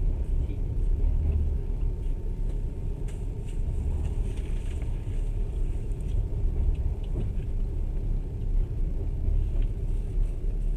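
Passenger train running, heard from inside the carriage: a steady low rumble with a few light clicks and rattles scattered through it.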